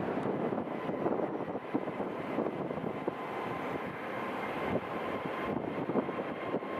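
Jet aircraft engines running steadily, with a faint held whine over a rushing noise, mixed with wind buffeting the microphone.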